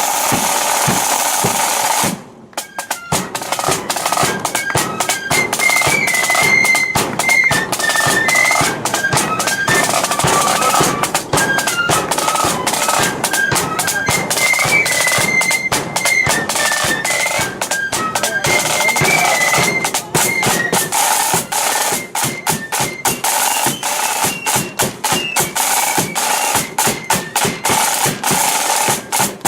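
Marching flute band playing: a tune on flutes over rapid snare drumming and a bass drum. The band comes in about three seconds in, after a brief lull.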